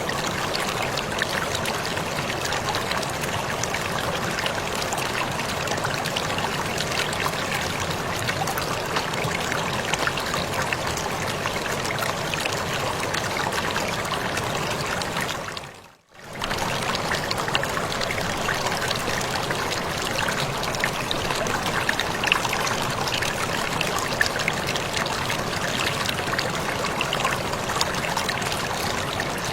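Waterfall: steady rushing and splashing of falling water. About halfway through it fades out to near silence, then quickly comes back in.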